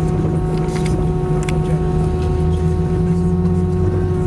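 Airbus A319 cabin noise on the ground before takeoff: a steady drone of the jet engines and cabin air, with a low hum and a few steady tones. A few faint clicks sit on top.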